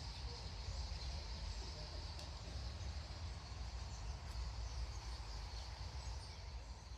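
A large starling flock chattering together, a dense steady hiss of many overlapping calls, over a low rumble.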